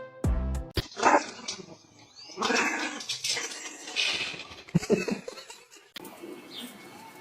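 A dog vocalizing in several short, noisy bursts.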